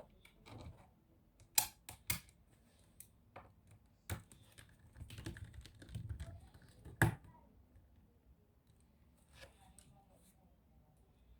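Irregular sharp plastic clicks and knocks from working on a laptop by hand, a few loud ones among softer taps.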